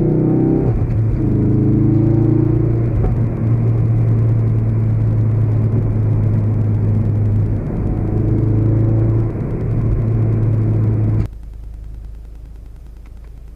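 2016 Ford Focus RS's 2.3-litre turbocharged four-cylinder engine running at steady revs under way, a constant low drone with small dips in pitch. About eleven seconds in it cuts off abruptly, leaving a low steady hum.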